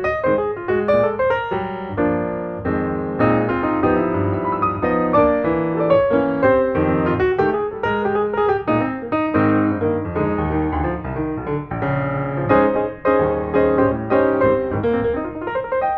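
Background music: a piano playing a busy run of notes.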